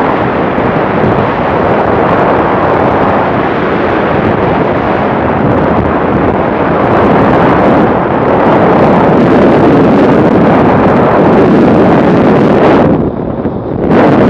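Loud wind noise buffeting the microphone on a moving motorbike. It drops away briefly for about a second near the end.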